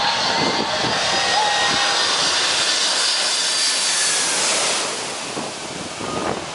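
Jet noise of a Boeing 747-400 passing low overhead as it comes in to land: a loud rushing hiss with a thin high whine, which drops off about five seconds in.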